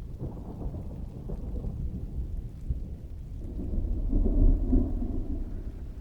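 Rolling thunder over steady rain: a low rumble that builds about three and a half seconds in, peaks just after four seconds and fades toward the end.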